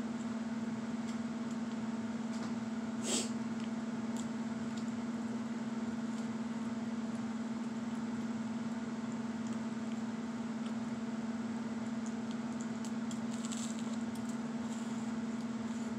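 Chewing crunchy buttered, sugared toast: a sharp crunch about three seconds in and a few fainter crunches later, over a steady low hum.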